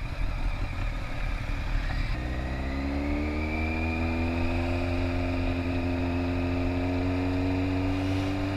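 Motorcycle engine running: a low rumble, then from about two seconds in a clear engine note that climbs slowly in pitch and then holds steady.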